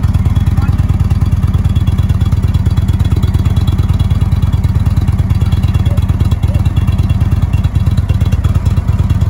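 Indian motorcycle engine running steadily, with a fast even pulsing low throb.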